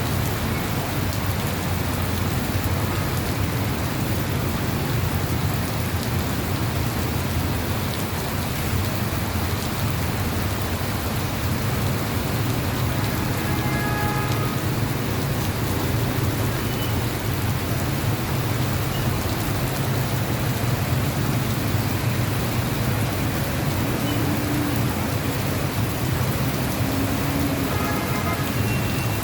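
Heavy monsoon rain pouring steadily onto surfaces, a dense, unbroken hiss with a low rumble beneath it.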